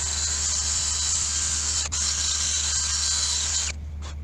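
Power tool running steadily as it cleans up the face of a clutch flywheel, a loud hissing grind. It stops near the end, after two short dips along the way.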